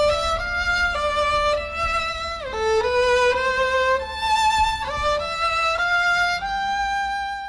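A slow solo melody on a bowed string instrument, a violin by its sound, one held note after another with a downward slide about two and a half seconds in. It cuts off abruptly at the end.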